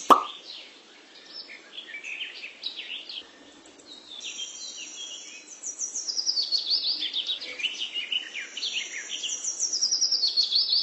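Songbirds chirping, a quick run of short notes that mostly fall in pitch, growing busier and louder about halfway through. A single plop sounds right at the start.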